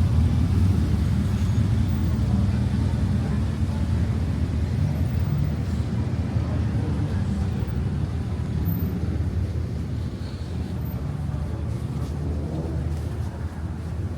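Steady low rumble of a motor vehicle or road traffic passing close by, slowly fading.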